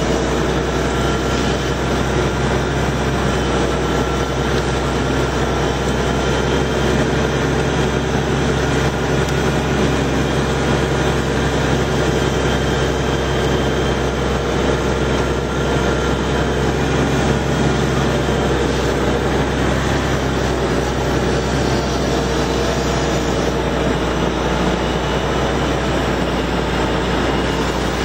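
Steiger tractor's diesel engine running steadily under constant load, a loud unbroken drone.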